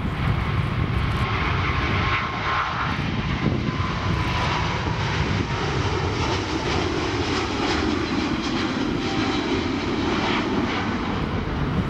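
Jet airliner engines running loud and steady as the aircraft departs, with a band of engine noise that swells in the second half. Gusty wind is buffeting the microphone.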